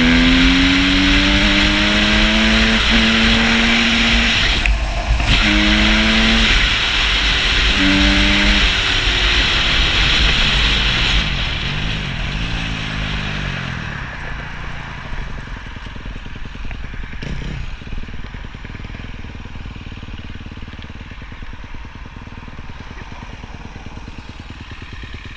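Honda CRF250 dirt bike's single-cylinder engine revving up hard and shifting through gears several times, under heavy wind noise on the microphone. About eleven seconds in, the wind and engine noise drop away as the bike slows, leaving a quieter, lower running sound.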